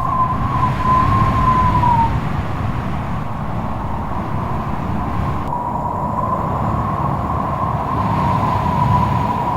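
Strong wind howling, with a deep rumble underneath and a thin, slightly wavering whistle that fades out about two seconds in and comes back a few seconds later.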